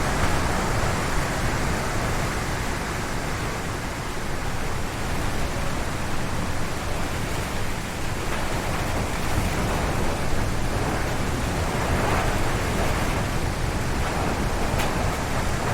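Strong gusty wind howling through forest trees: a steady rushing roar with a low rumble underneath, swelling and easing in gusts.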